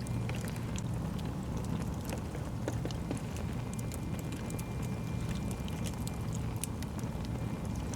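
Wood fire burning in a fireplace, crackling with many small irregular snaps over a steady low rumble.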